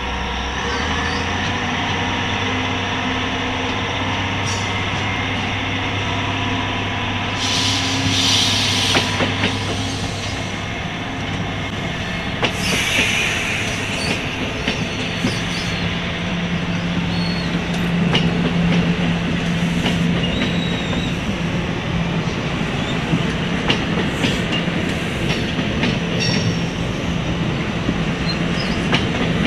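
NJ Transit commuter train of Multilevel double-deck coaches, cab car leading and pushed by diesel-electric locomotives on the rear, approaching and rolling past with a steady drone and the noise of wheels on the rails. Two short noisy bursts come about 8 and 13 seconds in.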